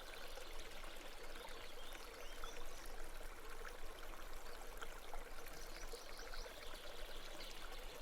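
Babbling brook: water flowing and trickling steadily, soft and even.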